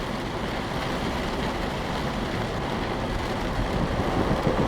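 Steady noise of a car driving through heavy rain, heard from inside the cabin: rain on the body and glass, and tyres on the wet road.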